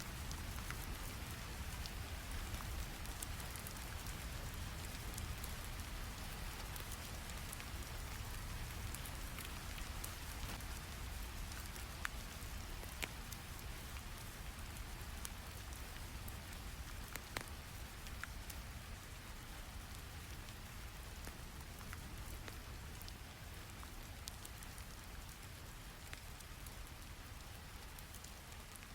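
Steady rain falling, with scattered sharp crackles from a wood fire in a fireplace; the sound grows slightly quieter over the second half.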